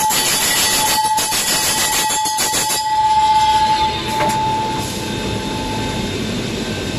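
Core drill bit grinding machine at work: a loud, hissing grind over a steady whine. The hiss drops off sharply about three seconds in, the whine stops a little over a second later, and a quieter running noise remains.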